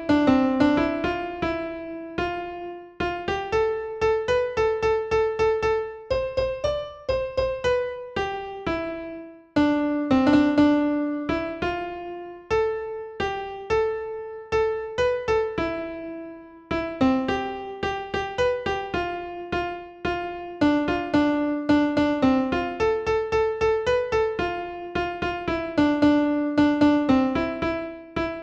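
Piano-like keyboard music: a quick stream of single struck notes that fade after each attack, playing repeating melodic phrases. It is not white noise.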